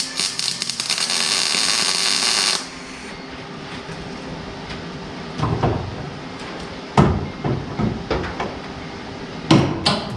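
A welding arc crackles for about two and a half seconds as a spot weld is laid on sheet metal. Then come a few separate sharp knocks and clanks of metal being handled.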